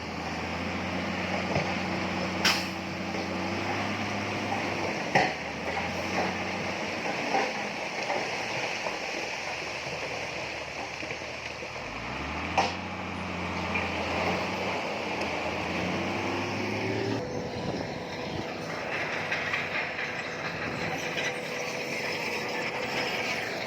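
Crawler bulldozer's diesel engine running under load with steady clanking of its steel tracks, a few sharp metallic knocks, and the engine revving up about halfway through.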